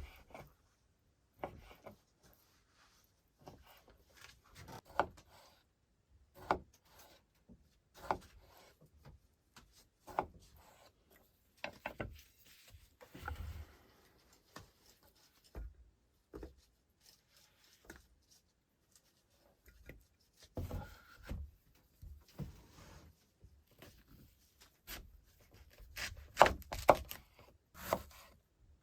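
Irregular wooden knocks, rubbing and scraping from hand work, spaced out at first and coming thicker and louder near the end.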